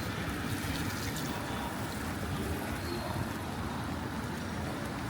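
Steady outdoor background noise: a low rumble with a faint hiss over it, no single event standing out.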